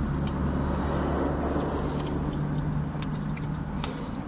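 Steady low hum of a car engine idling, heard from inside the car's cabin, with a few faint clicks over it.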